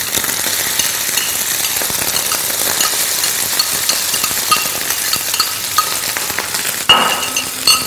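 Textured soya granules sizzling and crackling in hot oil in a nonstick frying pan as they are stirred with a spatula. A brief, louder ringing clink comes about seven seconds in.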